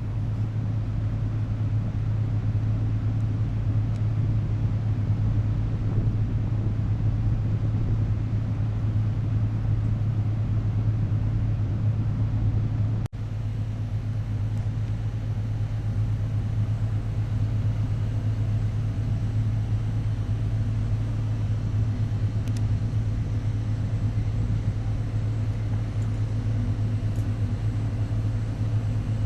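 Steady low engine drone of a river cruise ship heard on board, a constant deep hum. It cuts out for a moment about thirteen seconds in.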